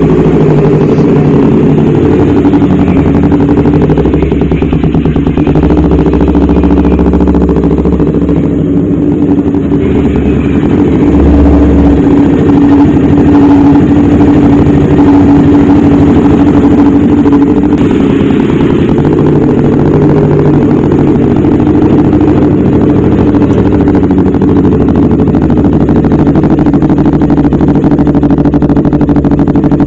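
Kawasaki Ninja 250 running through a racing exhaust: a loud, fairly steady engine note with only small rises and falls in pitch.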